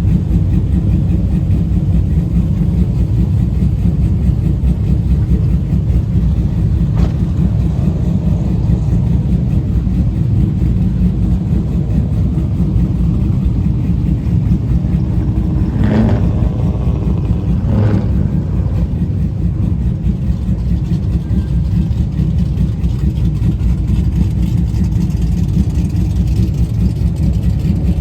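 A vehicle engine running loud and steady, with two short higher-pitched sounds about two-thirds of the way through.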